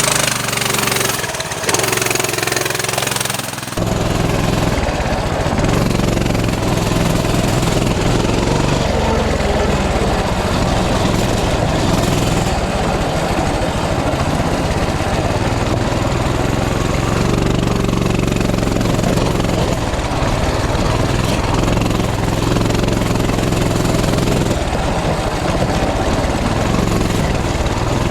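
Coleman CT200U mini bike's small single-cylinder four-stroke engine running under load while being ridden. The engine note fills out about four seconds in and then holds steady.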